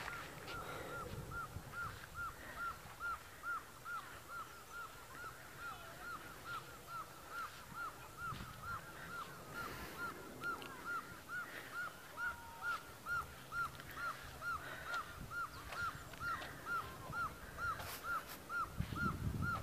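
A bird calling one short note over and over, very evenly, about two to three times a second without a break, over a low rumble.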